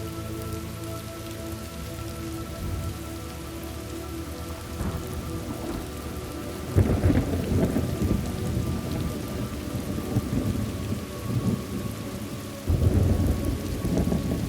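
Thunderstorm ambience: steady rain, with two rumbles of thunder breaking in, one about seven seconds in and another near the end.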